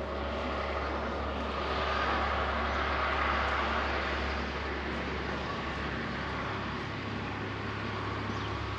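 A motor vehicle's engine and road noise, swelling to a peak about three seconds in and then easing off over a steady low hum.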